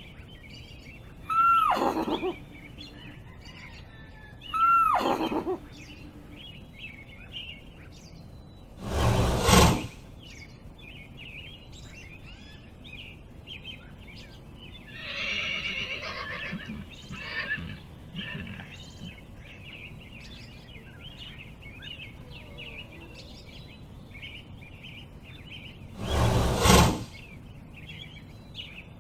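A horse whinnying twice in the first seconds, each call sliding down in pitch, then giving two loud, short snorts, one near the middle and one near the end, with a rougher, quieter call between them. Small birds chirp steadily behind.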